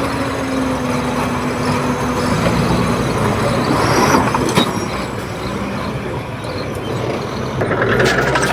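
Komatsu D31P crawler bulldozer's diesel engine running under work, with one sharp metallic knock about halfway through and a shift in the engine note near the end.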